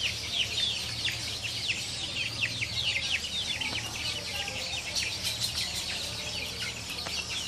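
Free-range chickens calling: a dense chorus of short, high, falling peeps, several a second.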